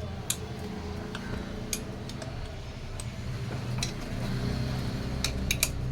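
Metal tools and engine parts clinking as they are handled and set down: scattered sharp clinks, with three in quick succession near the end, over a low steady hum.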